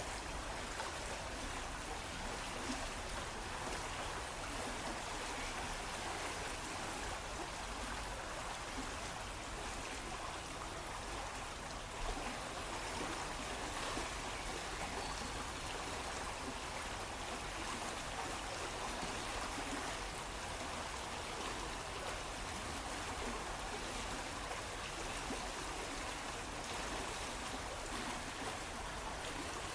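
Water splashing in a small stream, running steadily.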